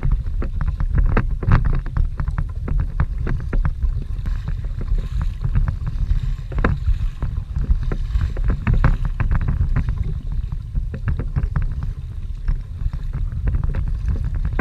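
Strong wind buffeting the microphone, with choppy water slapping and splashing against a fishing kayak's hull in many quick, irregular hits.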